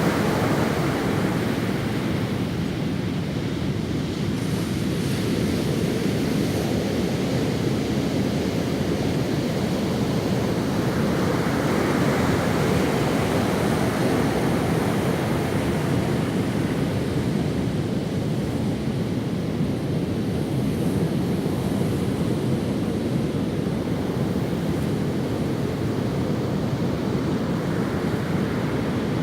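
Ocean waves breaking and washing up on a sandy beach, a continuous surf with slow swells as each wave rolls in.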